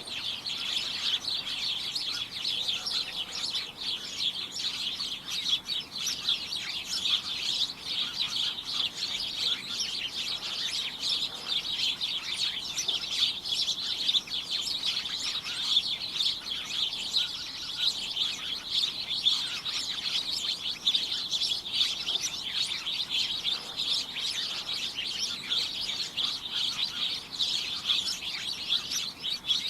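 Several birds chirping at once in a dense, steady chatter of quick, overlapping high chirps that never lets up.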